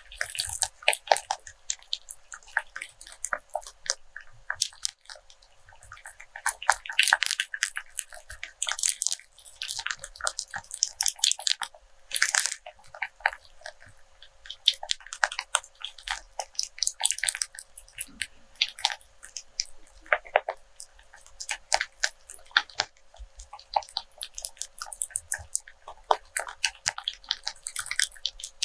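A rope being handled close to the microphone: its fibres rub and twist, giving a dense, irregular run of crisp crackles and creaks that come in clusters.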